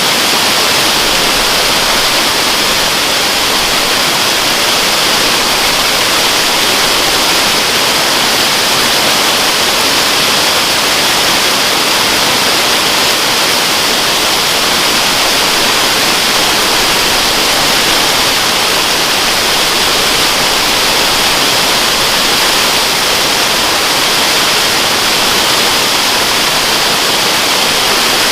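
Waterfall rushing steadily: a loud, even hiss of falling water, strongest in the upper range, with no breaks.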